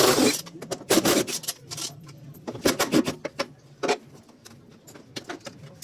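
Hand work on metal washing-machine parts: several short bursts of scraping and rubbing, with clicks and rattles, the loudest at the start and about a second in.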